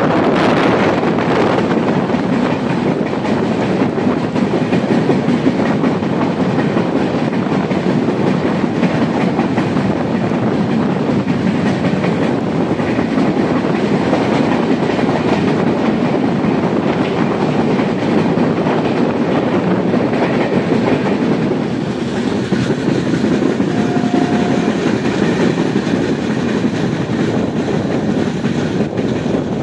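Passenger train running along the track: a steady rumble and clatter of wheels on rails.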